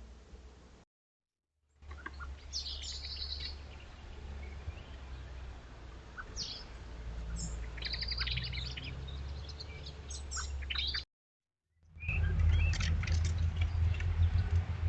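Small garden birds chirping, with many short high chirps and calls over a steady low rumble. The sound cuts out completely twice for about a second, at the start and near the end.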